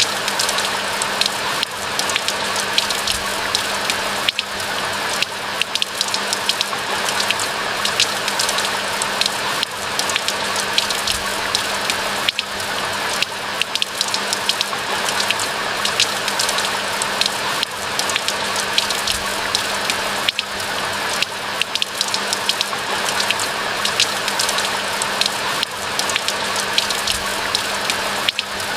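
Steady rain, with a dense patter of many individual drops over an even hiss.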